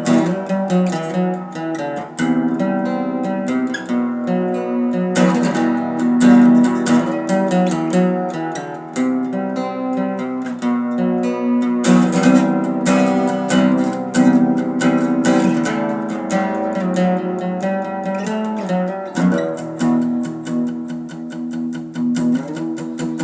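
Acoustic guitar strumming chords in an instrumental passage with no singing.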